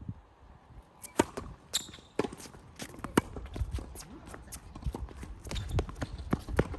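Tennis rally: sharp, irregular knocks of rackets striking the ball and the ball bouncing on the court, the loudest a little over a second in and about three seconds in. A low rumble of wind on the microphone runs underneath.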